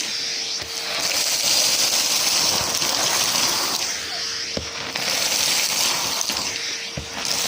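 Numatic James cylinder vacuum cleaner running, a steady rush of air with a faint motor whine. The rush thins and swells every second or two as it sucks up mess, with a few small clicks of debris going up the hose.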